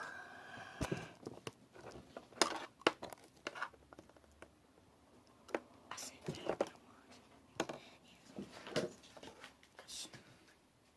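Homemade slime being squished and stretched by hand, with irregular small sticky clicks, pops and crackles.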